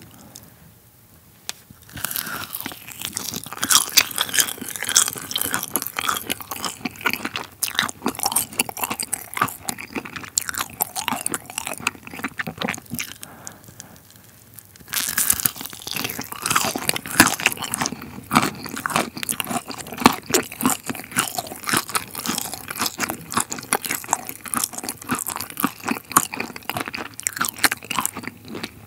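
Close-miked crunching and chewing of crisp sweets in the mouth. It starts about two seconds in, pauses briefly near the middle, then a second bite crunches on.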